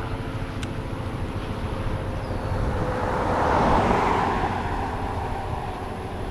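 A vehicle passing on a highway: a steady low traffic rumble with a tyre-and-engine noise that swells to its loudest about three and a half seconds in, then fades.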